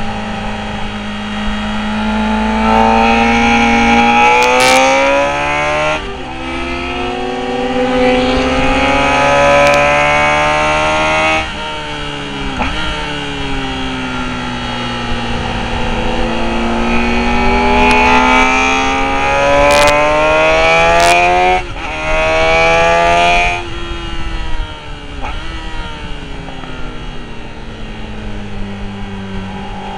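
Motorcycle engine at full throttle on track, climbing in pitch and snapping down briefly at each upshift, then shutting off and winding down in pitch as the bike slows for a corner; this happens twice, with wind rush under it.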